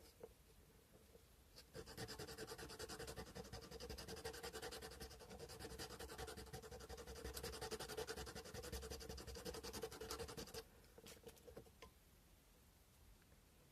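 Sandpaper rubbing on a carved cow-bone fish hook in fast, short back-and-forth strokes. It starts about two seconds in and stops a few seconds before the end, with a couple of light scrapes after.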